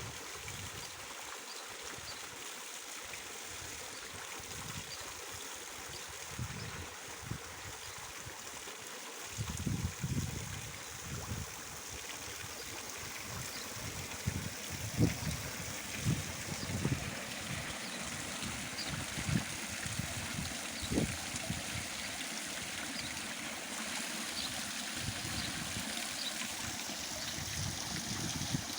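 Water running and trickling steadily over the rocks of a garden pond's waterfall, with occasional low rumbles.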